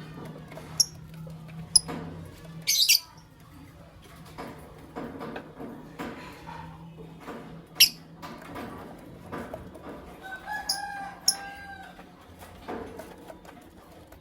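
Lovebirds chirping: two short, sharp high chirps about a second apart, then a louder burst of chirps around three seconds in, another single chirp near eight seconds, and a short run of lower, pitched calls around eleven seconds. A steady low hum runs underneath.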